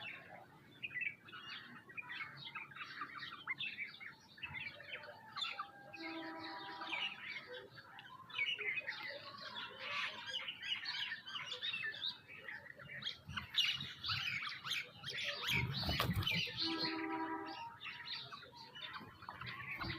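A flock of small birds chirping and twittering densely and continuously, with a couple of lower pitched calls about a third of the way in and again near the end. A louder rustling burst, like a flurry of wings, comes about three-quarters of the way through.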